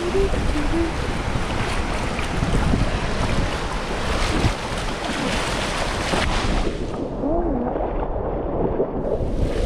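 Waves breaking on a beach with wind buffeting the microphone, a loud steady wash of noise. Faint children's voices come through at the start and again about seven seconds in.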